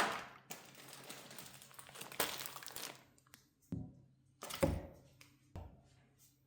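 Kitchen food-preparation sounds: a sharp click, a couple of seconds of crinkling with a crack in it, then three separate knocks.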